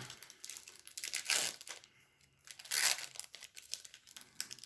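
A trading card pack wrapper being torn open and crinkled by hand, a dense papery-plastic rustle with two louder rips about a second and a half apart.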